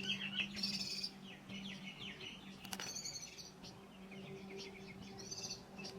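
Small birds chirping and twittering in quick, overlapping calls, with buzzy chatters about a second in, near the middle and near the end. A steady low hum runs underneath.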